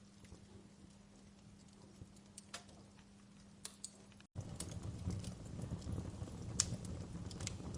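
Wood fire crackling in a fireplace: sparse pops and snaps at first. After a brief dropout a little over four seconds in, the crackling comes back louder and denser over a low rumble.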